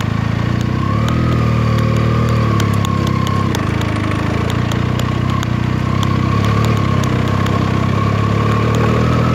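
Benelli TNT 300's parallel-twin engine running steadily on the move, its pitch easing up and down a little.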